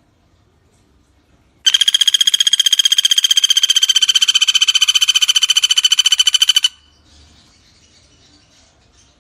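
Pelatuk bawang woodpecker giving one long, rapid, even trill of about five seconds, steady in pitch, that starts and stops abruptly. Faint chirping of insects or birds sits behind it.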